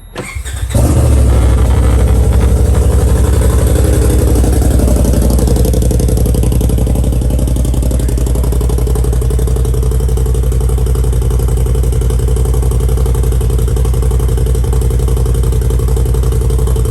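Engine of a 2021 Polaris RZR Turbo S, a turbocharged twin, breathing through a custom MagnaFlow muffler: it starts within the first second, then idles loud and steady.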